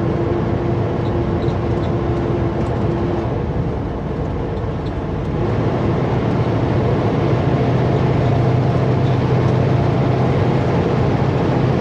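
Kenworth W900L semi truck's diesel engine running on the highway, heard inside the cab. It eases off about four seconds in, then comes back louder with a strong low drone.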